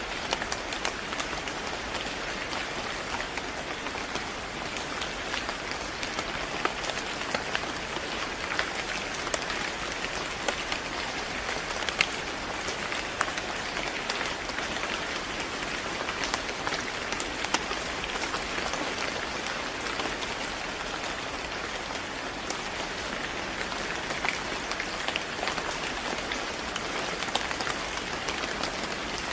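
Steady rain falling on a surface, a constant hiss with many sharp individual drop ticks scattered through it.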